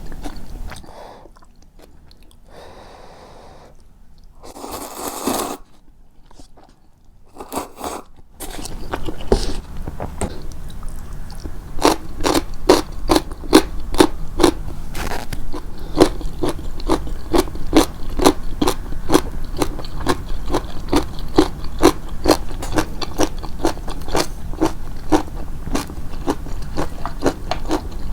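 Close-miked chewing of crunchy food, with a steady crunch about two to three times a second through the latter two-thirds. The first part is quieter, with a few short soft noises.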